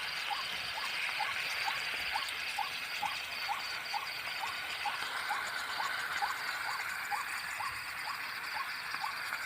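Night chorus in wet fields: short rising chirps repeat evenly about two or three times a second over a steady dense hum of insects.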